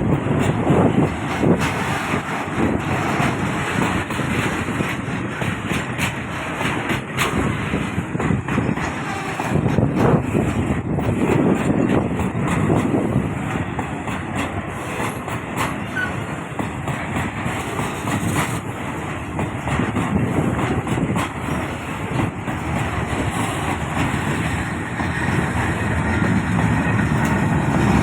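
Pakistan Railways train in motion: a steady rumble of wheels on the track, with frequent clicks and knocks running through it.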